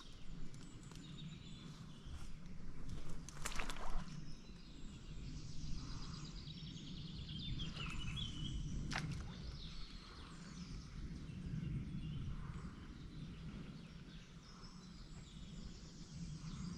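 Quiet outdoor ambience with a steady low rumble, a few faint bird chirps and a few brief clicks.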